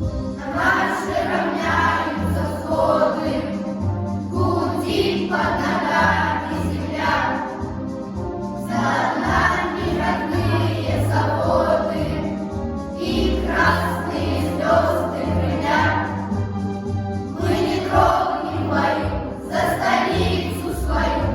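A group of voices singing a song together over an instrumental backing with a bass line.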